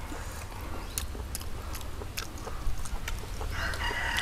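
People chewing and biting into braised pig head, with scattered small clicks and smacks over a low steady hum. A rooster starts crowing near the end.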